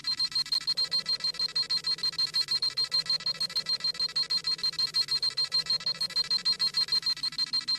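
Dragon Ball Z scouter sound effect: a rapid electronic beeping, a high bleep pulsing several times a second without a break, the sound of a scouter reading a power level.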